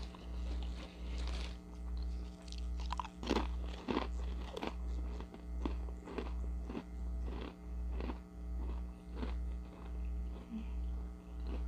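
Close-up crunching and chewing of Ritz toasted sour cream and onion chips, a run of crisp crunches about every half second, loudest three to four seconds in. A low hum that pulses roughly every three-quarters of a second runs beneath.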